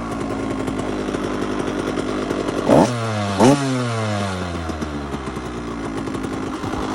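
2004 KTM 85 big wheel's two-stroke single-cylinder engine running while warming up after a cold start, its revs sinking back, then two quick throttle blips about three and three and a half seconds in before it settles again.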